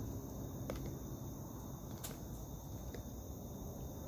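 Steady night chorus of crickets and other insects in high, unbroken trills, over a low rumble, with two short clicks about a second and two seconds in.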